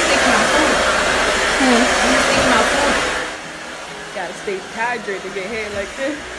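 Handheld hair dryer blowing steadily during a salon blow-out of curly hair, near the end of the blow-dry; about three seconds in the noise drops to a much quieter level.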